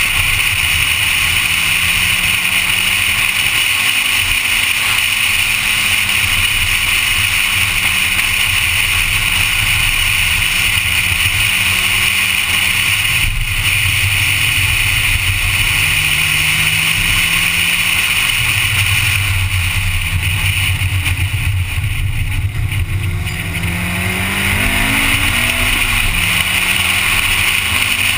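Honda Civic engine pulling hard under load on a track lap, its note climbing and dropping with the gear changes over a steady loud rush of noise. About two-thirds of the way through, the level dips and the engine note falls, then climbs again as it accelerates away.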